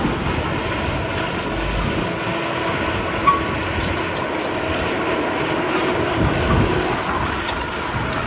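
Komatsu D31P crawler bulldozer running steadily, engine noise with light metallic clicks and squeaks.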